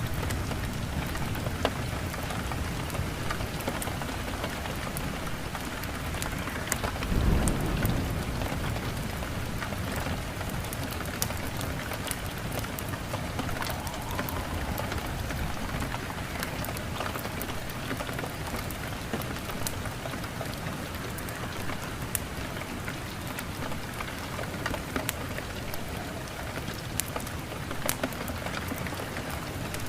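Steady heavy rain with a low rumble of thunder swelling about seven seconds in, and scattered sharp crackles of a wood fire in a fireplace.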